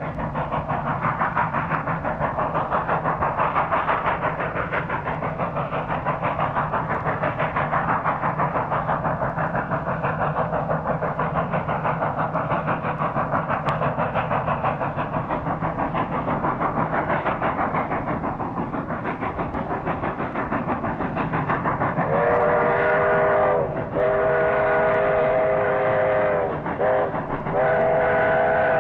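A train running with a steady rhythmic chugging. About twenty-two seconds in, its multi-note whistle starts sounding in long blasts, broken twice briefly.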